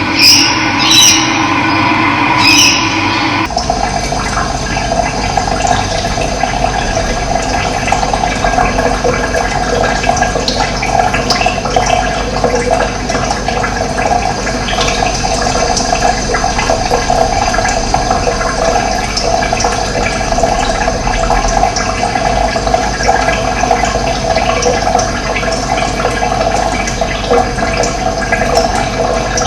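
Running water, a steady rushing flow; the sound changes abruptly about three and a half seconds in, after a few louder splashes.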